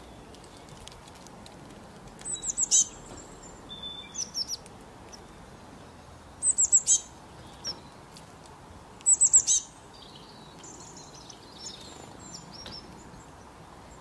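A songbird singing: three short, bright phrases of rapid, high, down-sweeping notes, about two, six and a half and nine seconds in, with softer, thinner chirps in between.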